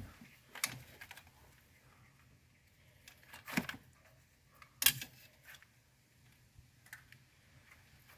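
Scattered sharp clicks and light knocks from parts and hand tools being handled during engine disassembly. The loudest come about three and a half and five seconds in.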